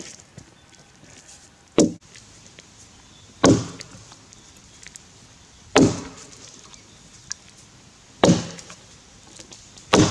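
Axe chopping into a Grey Gum log with a vintage Tassie pattern axe, bucking it: four hard, evenly paced blows about every two and a half seconds, each a sharp thwack with a short ring, and a fifth blow right at the end.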